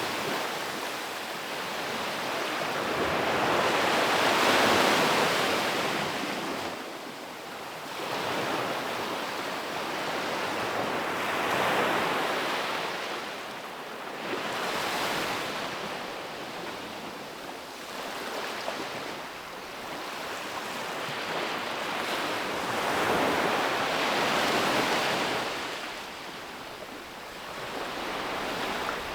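Ocean waves breaking and washing up a beach, surging and receding every few seconds, with some wind on the microphone.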